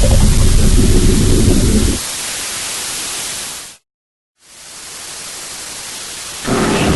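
Loud hissing static over a low rumble. The rumble stops about two seconds in and leaves the hiss alone. The sound cuts out completely for a moment near the middle, then fades back in and grows louder with steady humming tones near the end.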